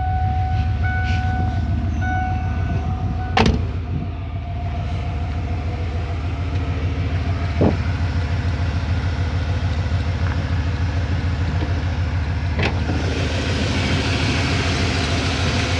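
Ford F-150's 5.0-litre (302) V8 idling steadily. A chime beeps in an even on-off pattern until a door shuts with a sharp knock about three and a half seconds in. Two more knocks follow, near eight and near thirteen seconds, and after the last one the engine sounds brighter and more hissy.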